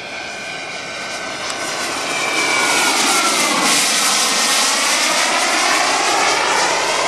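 Radio-controlled model jet flying past: the whine and rush of its engine grow louder, then the pitch drops as it passes, about halfway through.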